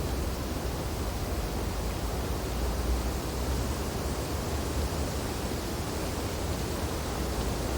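Steady wind blowing through snowy tree branches, a constant rushing noise with a deep rumble underneath and no gusts or breaks.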